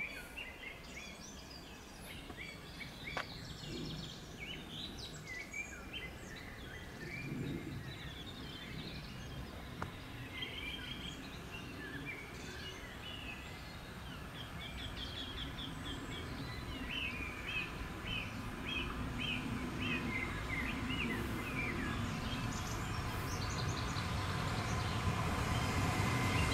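Songbirds singing and chirping, with short calls and runs of quickly repeated notes, over a quiet outdoor background. A low rumble from an approaching train grows steadily louder over the second half.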